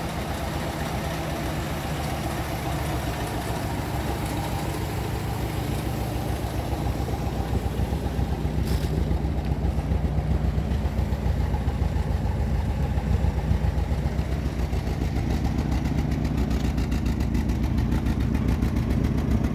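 Spartan roadster's engine running steadily at low revs, getting a little louder about halfway through.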